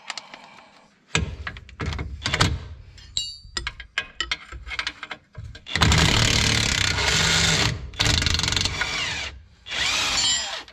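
Handheld power tool running in bursts of a few seconds on a van's front-suspension fittings, with metal clinks and knocks of tool handling before the longest run.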